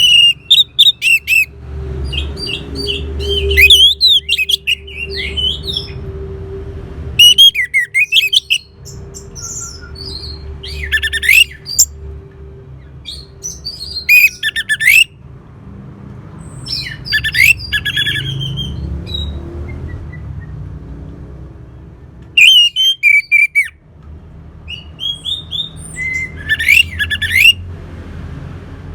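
Orange-headed thrush singing: a string of short, varied, high phrases of quick rising and falling notes, about eight of them with pauses between, over a steady low background hum.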